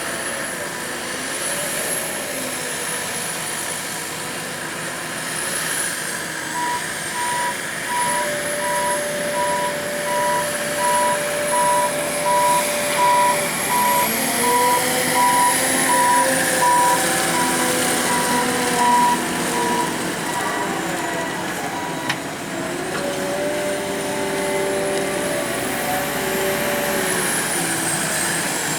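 A truck's reversing alarm beeping steadily from about six seconds in, stopping about two-thirds of the way through and starting again at the end, over the truck's engine running, its pitch rising and falling as it manoeuvres.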